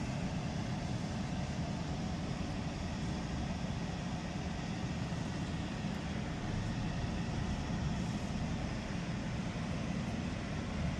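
A car running with a steady low rumble of engine and road noise.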